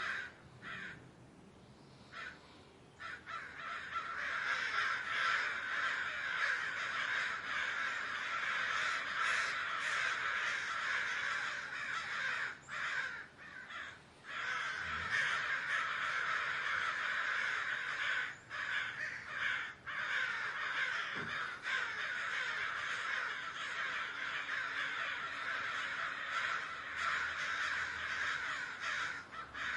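A large flock of birds calling all at once, a dense wash of overlapping calls that thins briefly about a second in and then fills back in.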